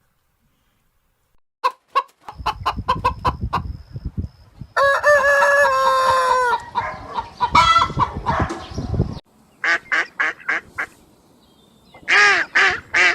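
Chickens: hens clucking in short repeated calls, and a rooster crowing one long call about five seconds in. After a sudden break about nine seconds in, runs of short, repeated fowl calls follow.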